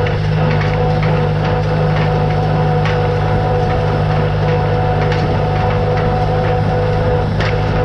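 Tractor engine running steadily with an even hum, with scattered light clicks and knocks over it.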